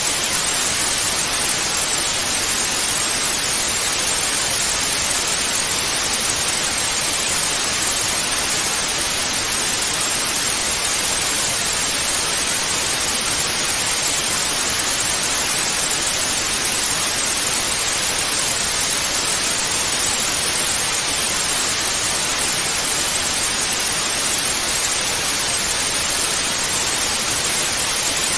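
Television static: a steady, even hiss of white noise with no changes.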